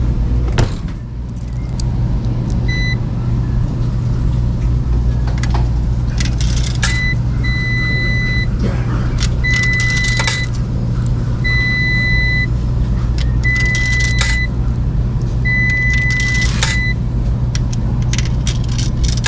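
An electronic beep, about a second long at a time, repeating roughly every two seconds over a steady low hum, with scattered clinks and rattles like keys or small metal objects being handled.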